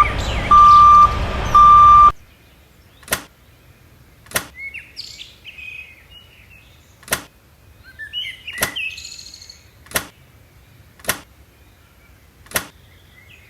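Three loud beeps on one steady tone over a noisy rumble during the first two seconds, then sharp single clicks roughly every second and a half, with birds chirping between them.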